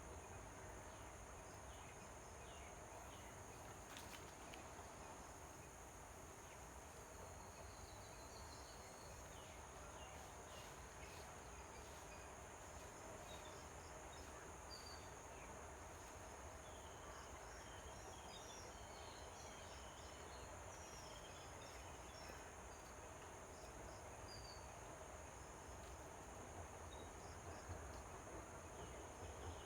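Faint outdoor ambience: a steady high insect drone, as of crickets, with scattered short high chirps over a low rumble.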